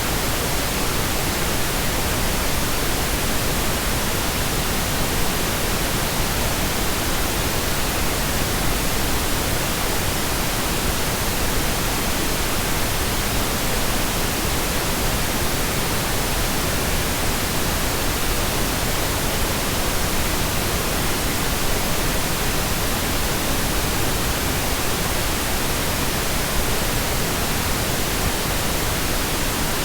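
Steady, unchanging pink noise: an even hiss across all pitches, softer in the highs than white noise.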